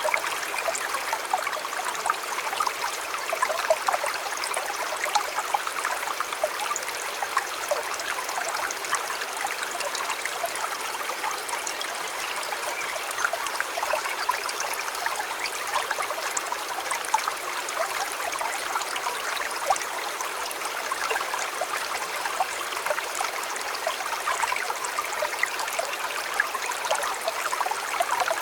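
River flowing, a steady rush of water with many small splashes and gurgles.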